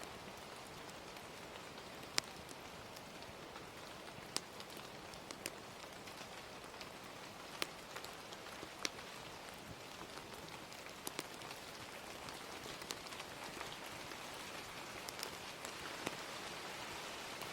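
Steady gentle rain hiss, swelling slightly near the end. Sharp pops of a crackling wood fire sound over it, roughly one every one to two seconds.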